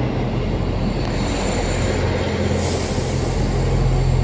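Diesel passenger train at the platform with its engines running: a steady low drone that strengthens about three seconds in, with a thin high whine above it.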